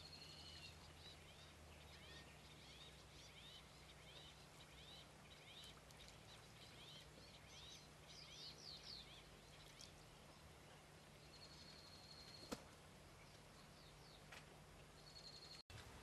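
Faint, high-pitched chirping and twittering of birds: many short, quick sweeping notes with a few longer held whistles, over a steady low hum. A single sharp click comes about three-quarters of the way through.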